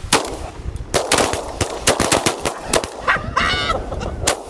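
A rapid volley of shotgun blasts from several hunters firing at once on decoying ducks, about a dozen shots close together over the first three seconds and one more near the end. A short high-pitched call sounds between the last shots.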